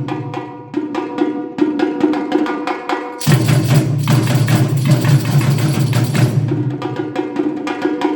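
A band rehearsing, playing music with a steady percussive beat over sustained notes. A low bass part comes in about three seconds in and drops away near the end.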